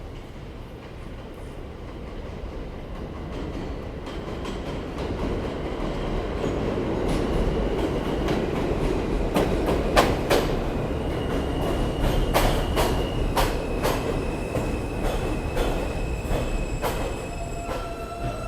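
New York City subway train pulling into an elevated station, its rumble growing louder, wheels clacking over rail joints. From about halfway in, steady high wheel and brake squeal sounds as it slows to a stop.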